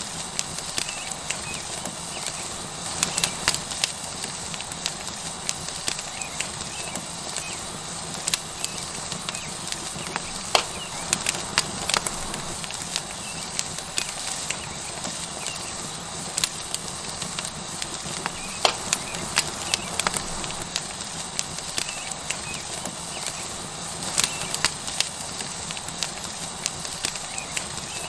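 Tomahawk steak sizzling on a hot rock over a wood fire: a steady hiss broken by frequent, irregular sharp crackles and pops from the burning wood.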